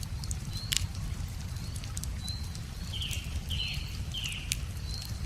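Wood fire crackling with scattered sharp pops over a low steady rumble, while small birds chirp; one bird gives three quick falling calls about three to four seconds in.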